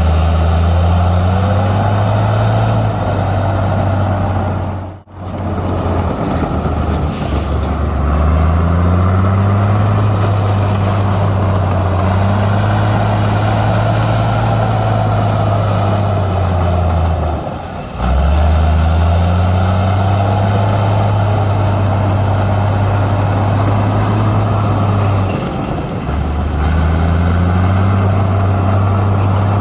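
Heavy diesel engine of earthmoving machinery working under load, its low note rising and falling as it revs up and eases off. The sound cuts out abruptly about five seconds in and again just before eighteen seconds, then picks straight back up.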